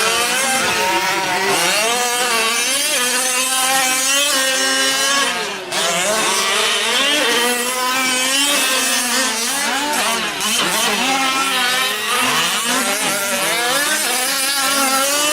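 Several 1/5-scale gas RC trucks' small two-stroke engines racing together, their pitches rising and falling and crossing one another as they rev and ease off through the corners of the track.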